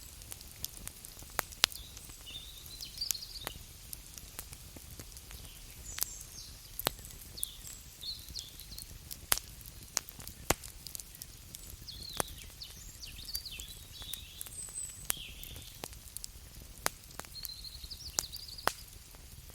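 Wood fire crackling, with irregular sharp pops every second or so, a few of them much louder than the rest.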